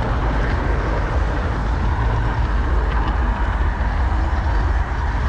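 Garden-scale model train running along its track, a steady low rumble heard from a camera riding on the train, with a few faint ticks.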